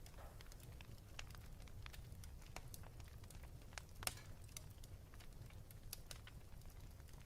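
Wood fire burning in a fireplace, with irregular soft crackles and one louder pop about four seconds in, over a steady low rumble.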